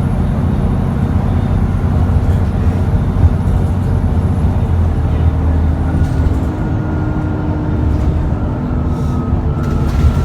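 Cummins ISBe 6.7-litre diesel of an ADL Enviro400 double-decker bus heard from on board, running with a steady low drone and a high turbo whine. The whine drops away about six seconds in as the engine note changes.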